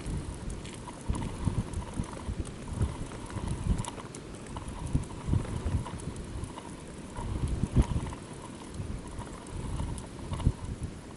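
Irregular low thumps and knocks at uneven intervals over low wind rumble on the microphone, as gear is handled out on the ice.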